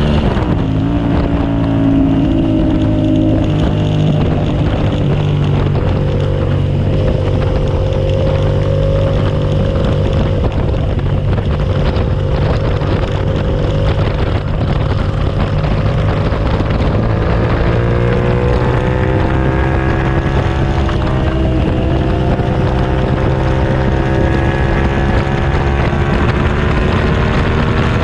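2007 Suzuki SV650S's V-twin engine on a lap of the track. The revs drop sharply just after the start as the bike slows, hold fairly level, then climb steadily over the last third under acceleration, with wind noise on the microphone.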